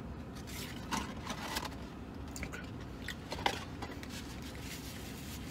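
A man chewing a mouthful of sandwich, with a few short, soft wet smacks and clicks over a low steady hum.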